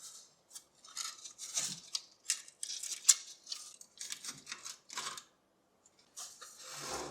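Irregular scratching and scraping strokes with a few sharp clicks, the sound of hand work on small hard parts. The strokes come in quick groups, and a single louder click comes about three seconds in.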